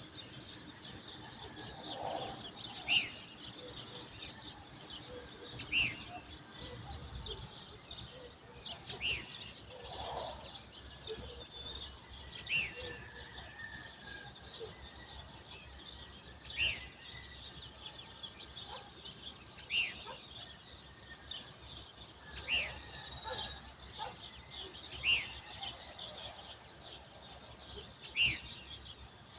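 Dawn chorus of songbirds: continuous high twittering, with one bird giving a short, sharp falling call about every three seconds.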